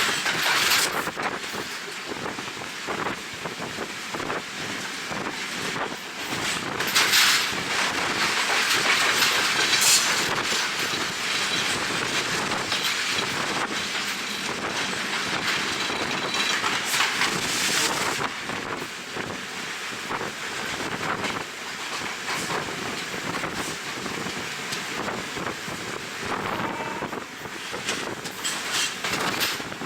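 Passenger train running along the track, its wheels clattering over the rails, with wind rushing across the microphone. It gets louder for a few seconds about seven seconds in.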